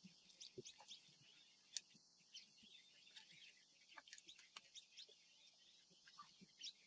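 Near silence in open grassland: faint, scattered bird chirps over a steady high background hiss, with a few sharp clicks, one just under two seconds in and two around four seconds in.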